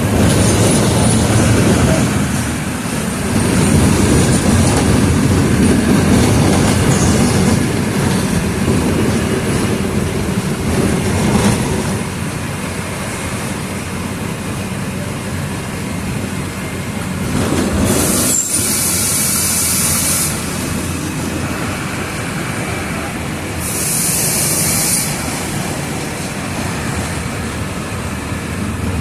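Mercedes-Benz OF 1722M bus running on the road, its engine and road noise loudest over the first dozen seconds and then easing off. Two short bursts of hiss come past the middle.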